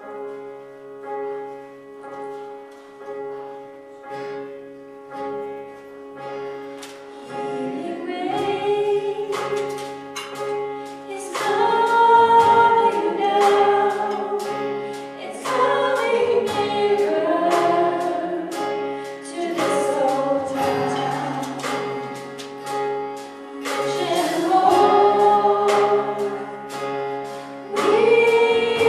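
Worship team performing a contemporary Christian song: sustained keyboard chords open it, and about seven seconds in a choir of voices comes in singing over the accompaniment, with percussion hits.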